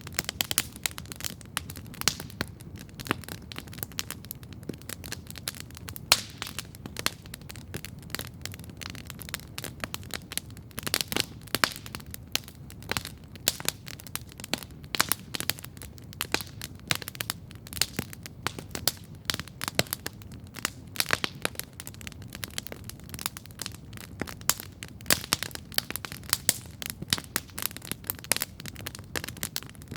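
Campfire crackling and popping steadily: many irregular sharp snaps every second over a low steady rumble.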